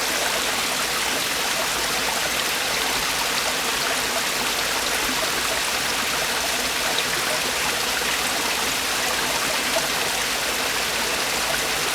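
Mountain valley stream with water falling over rocks, a steady rushing and splashing that holds even throughout.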